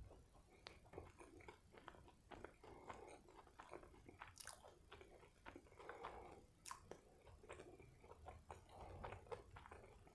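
Quiet, close-up chewing of a burger: many small wet mouth clicks and soft crunches in an irregular run.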